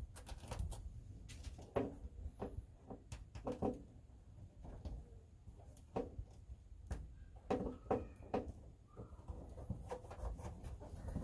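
Scattered knocks, taps and rustles of hands working small pieces of sound-deadening mat into a truck cab, over a low steady rumble.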